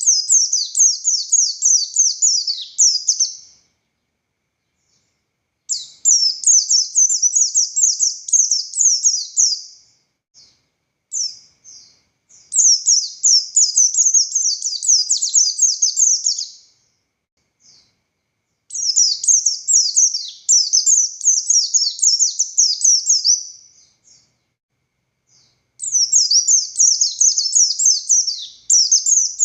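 White-eye of the buxtoni form (pleci buxtoni) singing in long bouts of rapid, high, down-slurred notes, each bout lasting about four to five seconds, with short pauses between bouts. It is the bird's full, continuous song, which keepers call gacor.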